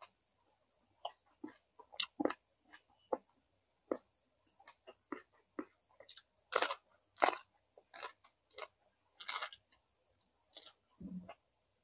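Close-miked chewing of roasted vegetables: irregular wet crunches and bites, loudest about halfway through, with a short low sound just after the 11-second mark.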